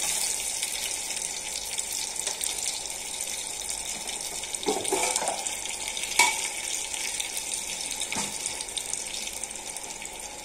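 Garlic and dried red chillies sizzling in hot desi ghee in a small pan: a steady frying hiss that slowly fades as the garlic browns. A sharp tap comes about six seconds in.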